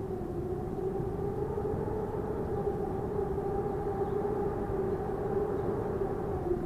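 Strong wind blowing with a steady rushing noise and a held, howling tone over it, which dies away at the very end.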